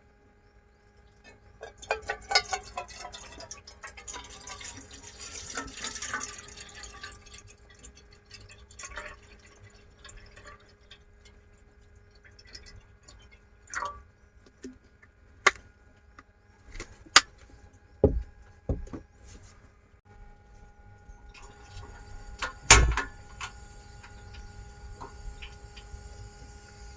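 Liquid pouring and dripping, then scattered clinks and a few heavier knocks of kitchen utensils, over a faint steady electrical hum.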